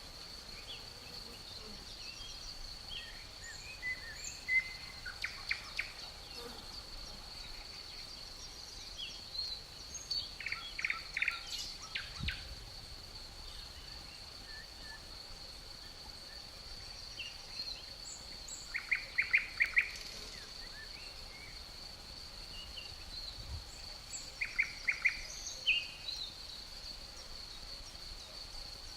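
Outdoor nature ambience: a steady high insect drone, with birds calling in short runs of quick chirps several times, loudest about 19 seconds in.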